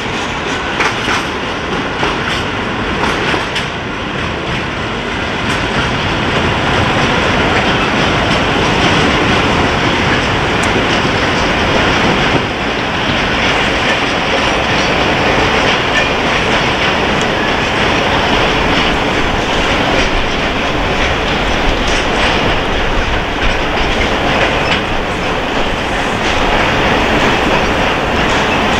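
Railway wagons rolling past, their wheels clattering over the rail joints in a steady clickety-clack.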